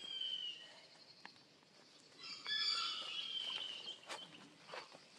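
Birds calling: several high calls, some falling in pitch, the loudest about two to three seconds in, with a few faint clicks.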